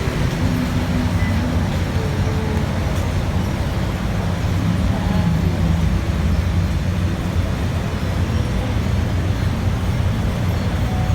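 Vehicle driving on a road: a steady low rumble of engine and road noise.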